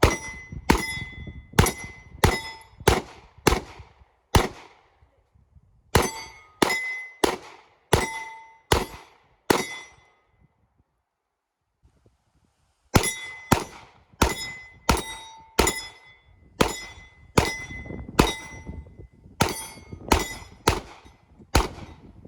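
Gunfire at steel targets: three rapid strings of shots, about two a second, each hit followed by the clang and ring of the steel plate. There are short pauses between the strings.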